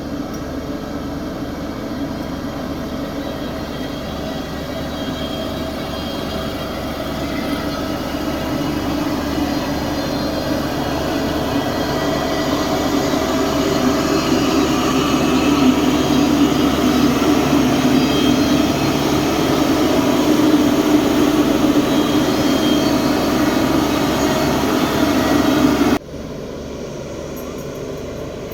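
Heavy earthmoving machinery engine running steadily, growing louder over several seconds. Near the end it cuts abruptly to a quieter, duller engine sound.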